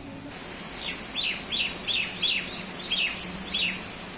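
A bird calling a quick series of about eight sharp, falling chirps, over a steady hiss of rain.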